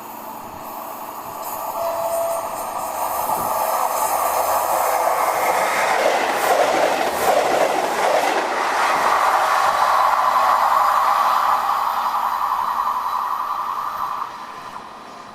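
A train passing on the line. It grows louder as it approaches, stays loud for about ten seconds as it goes by, then falls away sharply near the end.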